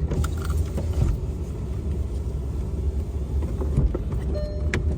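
Steady low rumble of a car stopped with the engine running. A few light clicks, and near the end a sharp click followed by a car's warning chime that starts dinging about once a second, as when a door is opened.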